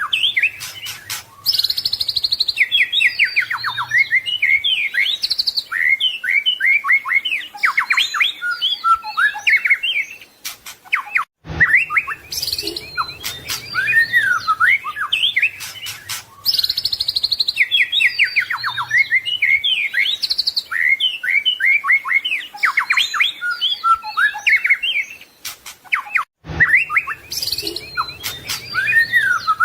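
White-rumped shama (murai batu) singing a rapid, varied song of whistles, sweeps and trills. The same stretch of song repeats about every fifteen seconds, with a short break between each repeat.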